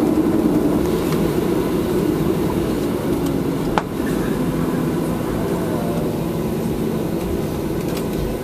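Boeing 737-700 cabin noise while taxiing: the steady rumble and hum of the CFM56 engines at idle, heard from inside the cabin. A single sharp click comes about four seconds in.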